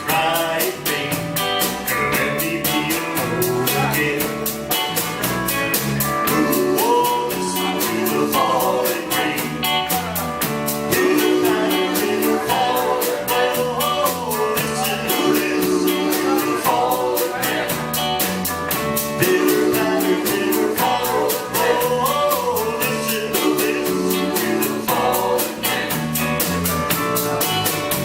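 A band playing a song, with a singer's voice over a steady drum beat.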